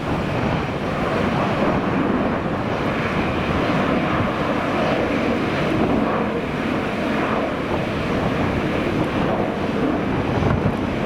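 Airliner jet engines with a steady, even noise, mixed with strong wind rumbling on the microphone.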